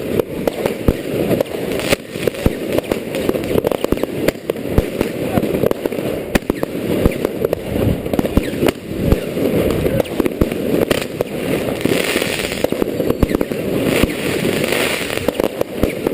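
Fireworks going off: a dense, irregular run of sharp cracks and pops, several a second, over a steady low rushing noise.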